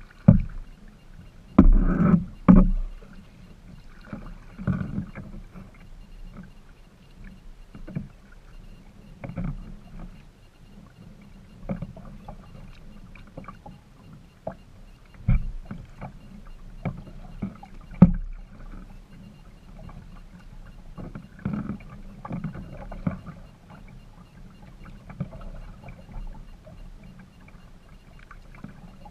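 Kayak being paddled: irregular paddle splashes and water noise, with several sharp knocks, the loudest near the start and another about two-thirds of the way through.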